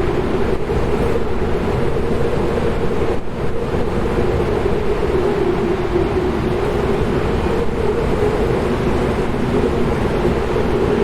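Steady wind blowing, with a low, slightly wavering howl running through it.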